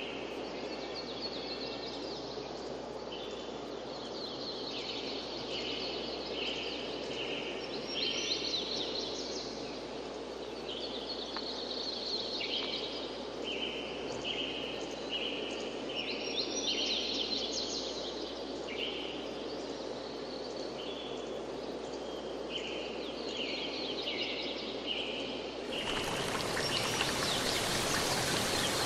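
Songbirds singing in repeated short phrases over a steady rushing background. About 26 seconds in, the sound cuts abruptly to louder, brighter rushing water like a stream or rain.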